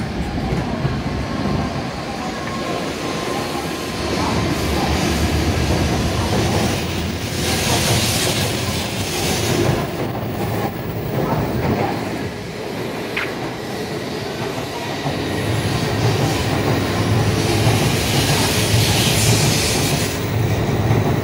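N700S Shinkansen train running out along the platform: a steady rush of wheel, rail and motor noise with rail joints clattering, growing louder near the end.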